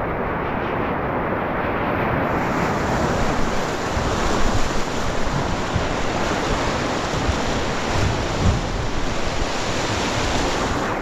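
Steady rush of river water, growing brighter and hissier about two seconds in, with a few low thumps of wind buffeting the microphone.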